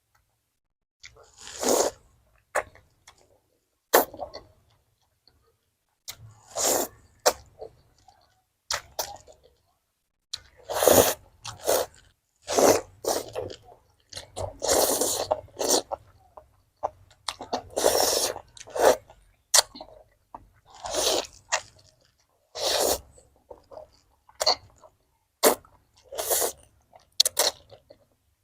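Close-miked eating sounds: food being bitten, chewed and slurped in separate bursts, each about a second long, with silent gaps between.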